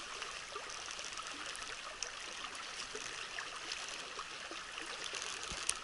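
Mountain river running steadily, an even rush of flowing water, with one faint click near the end.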